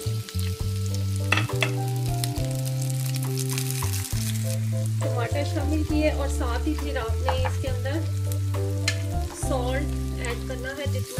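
Chopped tomatoes and green chillies sizzling in hot oil in a frying pan, stirred with a wooden spoon, with a few scrapes and clicks. Background music with long held bass notes that change every second or two plays over it.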